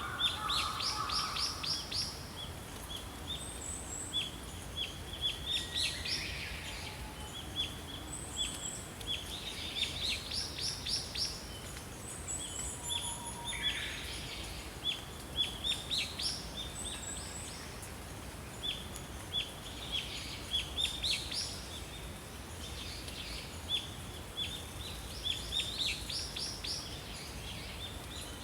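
Small birds chirping and trilling: many short high chirps and quick trills from several birds, over a steady background hiss.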